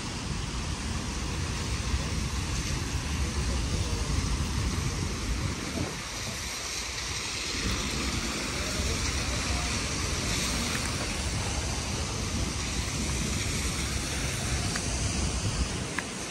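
Steady rain falling on wet paving, an even hiss, with a low fluctuating rumble underneath that drops away briefly about six seconds in.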